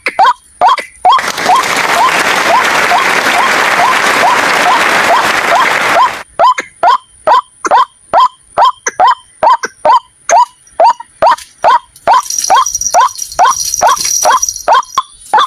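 White-breasted waterhen calling: a long run of short call notes, about three a second. Between about one and six seconds in, a loud rushing hiss lies over the calls, and near the end a fainter high hiss with a steady high tone joins them.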